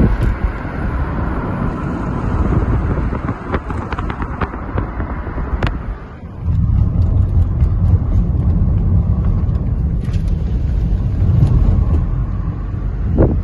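Steady low rumble of road and wind noise from a moving car, with a few scattered clicks. The rumble dips briefly about six seconds in, then returns.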